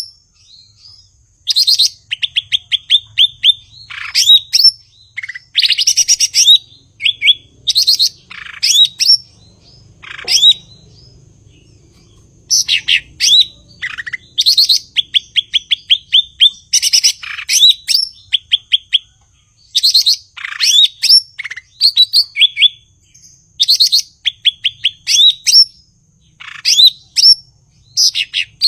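Cucak ijo (green leafbird) singing loudly in repeated phrases. Each phrase is a quick run of short high chips mixed with sharp whistles that slide steeply down, with a lull of a couple of seconds about a third of the way in.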